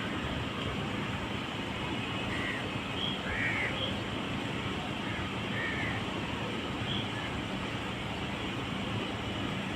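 A bird giving about half a dozen short calls between about two and seven seconds in, over a steady background noise.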